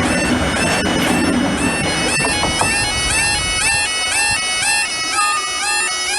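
Bagpipes playing a tune over their steady drones, each melody note opening with quick grace-note flicks. A low rumble sits underneath for the first two seconds and then fades.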